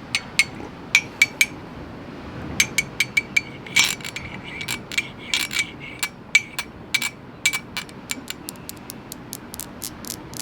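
Quick taps on a hard object, each with a short high ring, coming in irregular runs that grow faster in the second half.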